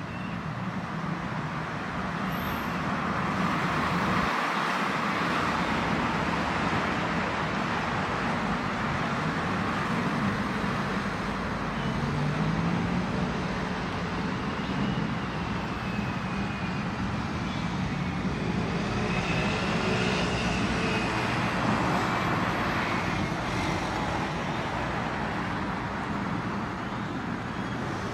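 Steady road traffic noise that swells twice as vehicles pass, the second time with a faint whine that rises and falls.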